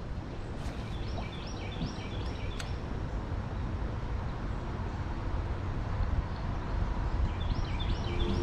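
A songbird singing a run of quick repeated high notes about a second in, and again near the end, over a steady low rumble.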